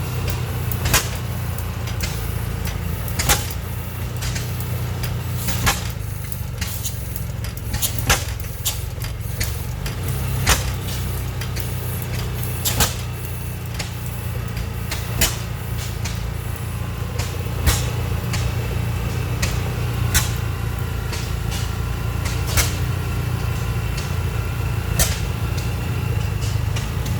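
Old single-cylinder stationary gas engine firing with a sharp pop about every two and a half seconds, over a steady low rumble of other engines running.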